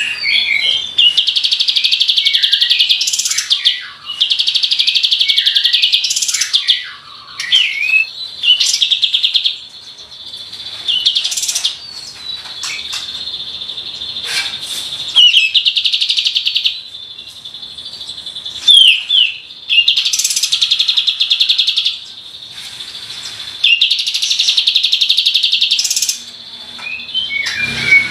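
Olive-winged bulbul (kapas tembak) singing: repeated fast, machine-gun-like trills, each a second or two long, strung together with short whistled notes.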